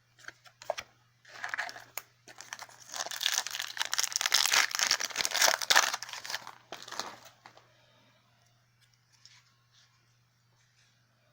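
A foil Yu-Gi-Oh! booster pack wrapper being torn open and crinkled, a dense crackling rustle from about a second in to about seven seconds, loudest in the middle. Faint scattered ticks of card handling follow.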